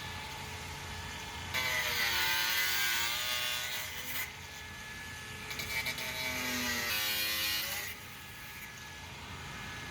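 A saw cutting through a waste-water drain pipe in two runs of about two and a half seconds each, its pitch dipping and recovering as it bites, with a quieter pause between the cuts.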